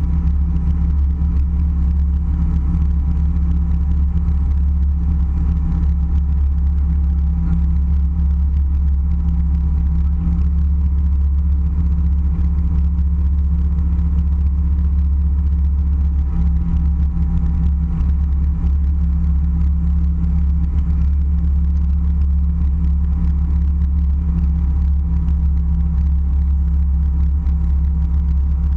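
Airliner cabin noise: a steady low drone of the engines and rushing air, with a faint steady whine above it.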